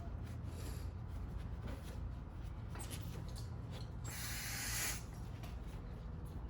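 Rubbing and scraping sounds of hand work on a car's brake assembly over a steady low rumble, with a hiss lasting about a second, about four seconds in.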